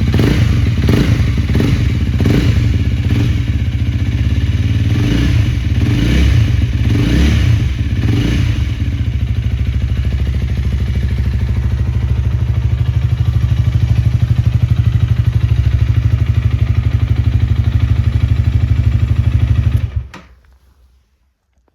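Honda Rebel 250's single-cylinder engine running through a Moriwaki aftermarket muffler, revved up and down several times, then idling steadily until it is switched off about twenty seconds in.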